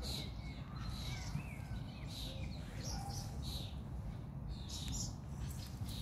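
Songbirds chirping: repeated short high chirps, with a few thin sliding whistles in the first half, over a steady low rumble.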